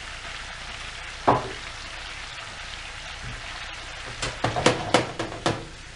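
Pineapple chunks and vegetables frying in a honey glaze in a pan, with a steady sizzle. A sharp knock sounds about a second in, and a quick run of clinks and knocks comes near the end.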